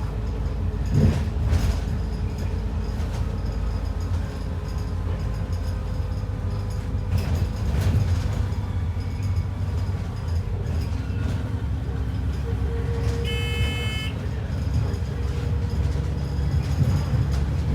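ADL Enviro 400 double-decker bus heard from inside while it drives: a steady low engine and road rumble. About thirteen seconds in, a short electronic beep sounds and lasts under a second.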